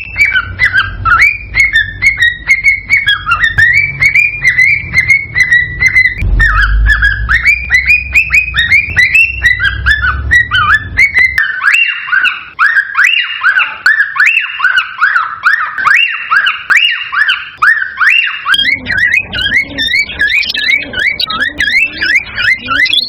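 Cockatiels whistling and chirping in a fast, unbroken run of short rising and falling whistles, several a second. A low rumble lies under the first half and stops about halfway through.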